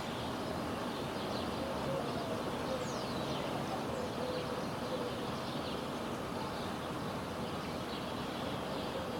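Steady outdoor background noise with faint bird chirps scattered through it.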